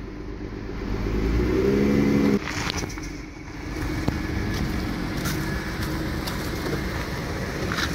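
Dodge minivan's engine revving as the van is backed up, rising in pitch and loudness for about two seconds, then dropping suddenly back to a steady idle.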